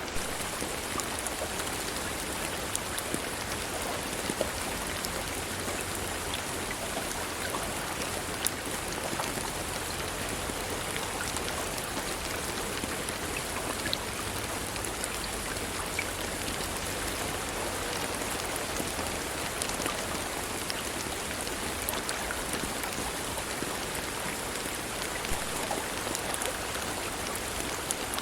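Steady rainfall, a continuous hiss with many scattered drop ticks.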